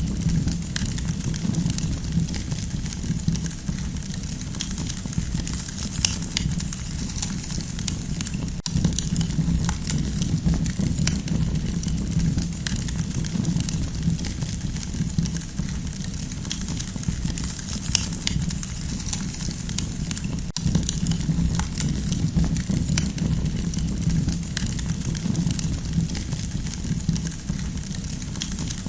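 Campfire crackling, with many small irregular pops and snaps over a steady low rumble.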